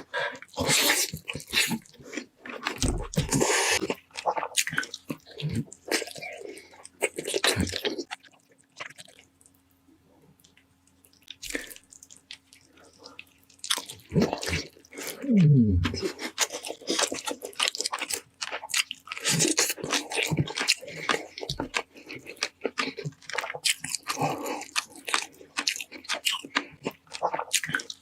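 Close-miked eating: crunching, biting and wet chewing of roast meat, with a pause of a couple of seconds about a third of the way in.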